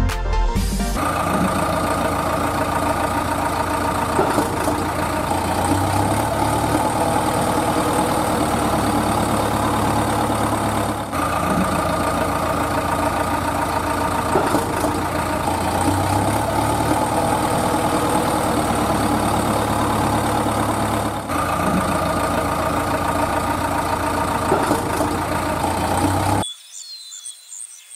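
Heavy vehicle engine idling steadily, repeating in near-identical stretches about ten seconds long, then cutting off about a second and a half before the end.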